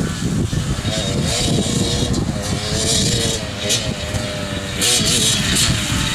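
Two-stroke dirt bike engine running and revving, its pitch wavering up and down, with bursts of rushing noise.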